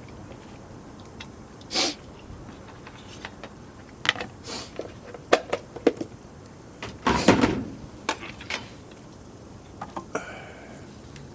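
Scattered clicks and knocks of cookware and utensils being handled, with a louder rustling burst about seven seconds in.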